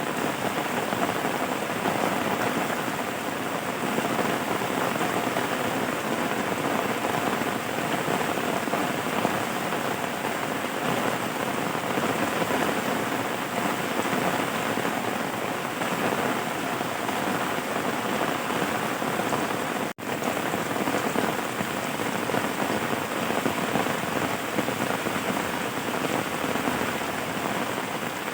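Steady rain falling on surfaces: a dense, even patter. There is one split-second dropout about two-thirds of the way through.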